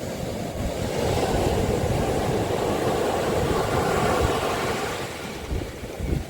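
Sea waves breaking on a beach: a surge of surf noise that builds about a second in and eases off near the end. Wind rumbles on the microphone throughout.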